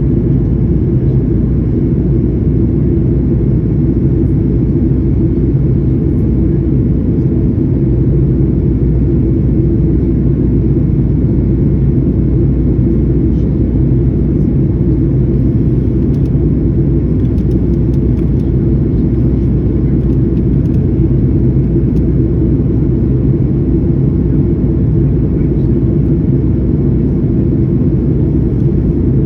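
Steady low rumble of an airliner's jet engines and rushing air, heard from inside the passenger cabin after takeoff.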